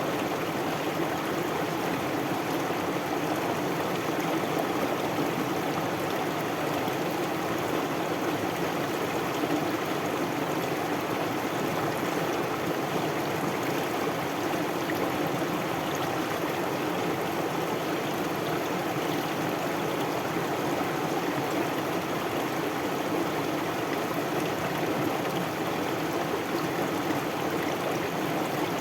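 River or stream water flowing, a steady, even rush of running water that does not change.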